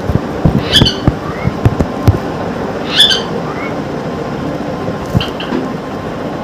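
Pet parrot giving short, high-pitched squawking calls: two clear ones about a second in and three seconds in, and two fainter chirps near the end. A few soft knocks are scattered between the calls.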